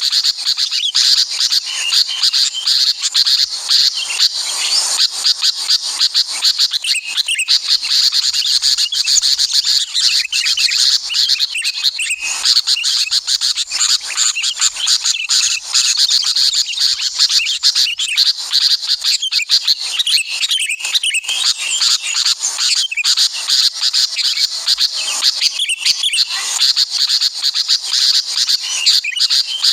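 Dense, continuous chorus of small birds chirping and trilling rapidly, the calls crowding over one another with no pause.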